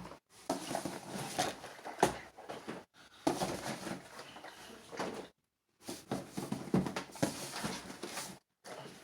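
Packaging being handled and unwrapped: crinkly rustling with scattered sharp knocks, in several spells broken by short pauses.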